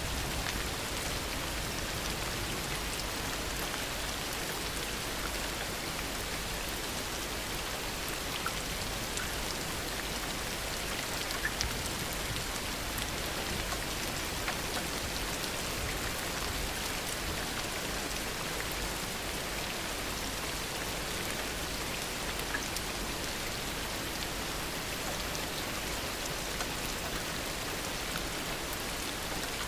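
Heavy rain falling steadily, a continuous hiss with scattered individual drops ticking through it.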